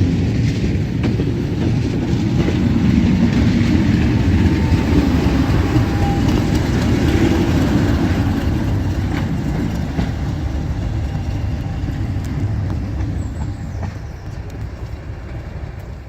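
Diesel train running on heritage track, a steady heavy rumble with some wheel-on-rail clatter, dying away over the last couple of seconds.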